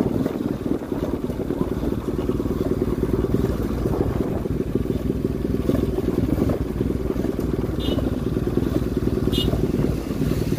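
Bajaj Pulsar NS200's single-cylinder engine running steadily while the motorcycle is ridden at road speed. Two short high tones sound near the end.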